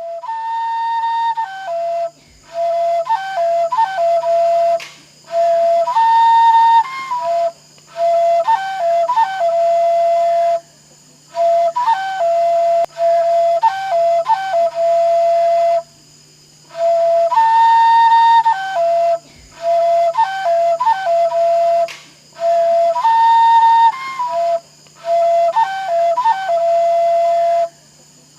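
A flute-like single-line melody played in short phrases with brief pauses between them. The same tune comes round again about halfway through.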